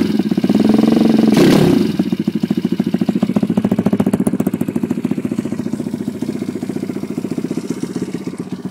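Lifan 150 cc single-cylinder four-stroke dirt bike engine with a short rev in the first two seconds, then settling back to a steady, even idle.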